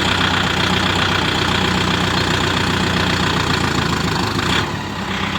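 A tractor's diesel engine running steadily and loudly, with a slight drop in level about four and a half seconds in.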